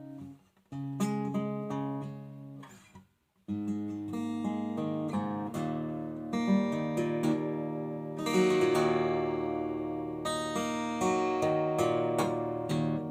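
Acoustic guitar played solo, chords strummed and plucked and left to ring. The playing stops briefly twice in the first few seconds, then carries on steadily.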